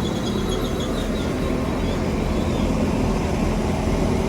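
Class 195 diesel multiple unit at the platform, its diesel engines running with a steady hum. A faint high whine flickers during the first second.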